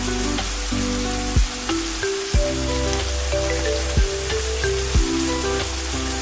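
Steady rain hiss mixed with soft background music: held low notes that shift in slow steps, with a short deep thump about once a second.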